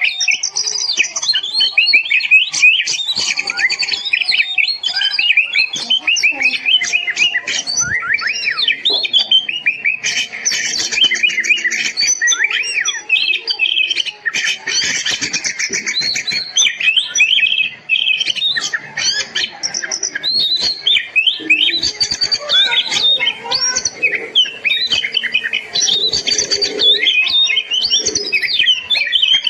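Oriental magpie-robin (kacer) in full song: a loud, continuous stream of quick varied whistles, chirps and trills, rising and falling without a pause.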